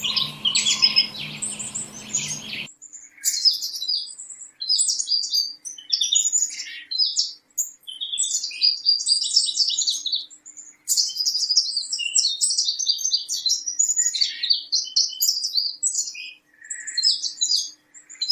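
Small birds chirping and twittering in quick, high-pitched runs, with brief gaps between them. A background hiss under the first few seconds cuts off suddenly.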